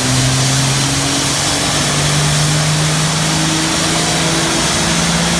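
Truck engine running hard and accelerating, its pitch climbing steadily in steps, over a loud rushing noise.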